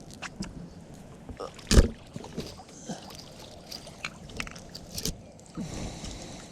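Cast net being thrown and worked from a small boat: scattered knocks and clatter, one loud thump about two seconds in, and a short watery rush near the end.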